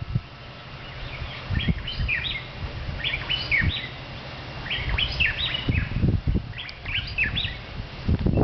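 Birds singing in repeated phrases of short, rapidly gliding chirps, with low rumbling on the microphone underneath.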